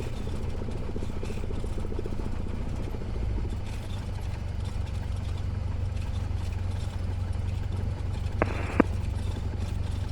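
Small Cessna's piston engine running at low taxi power, a steady low drone heard in the cockpit. A brief sharp double click sounds about eight and a half seconds in.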